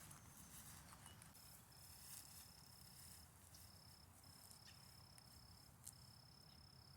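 Faint insect trilling on one steady high note, starting about a second and a half in and breaking off briefly a few times. Quiet rustling in the first second and a single sharp click near the end.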